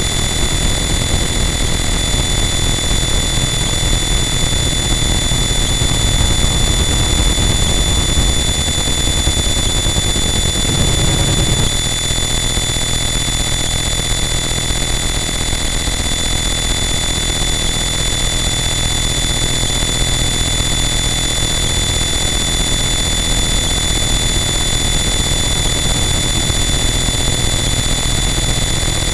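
Harsh noise wall: a loud, dense, unchanging wall of distorted static and crackle, with steady high whistling tones held on top. A low rumble swells for a moment about a third of the way in and then drops back.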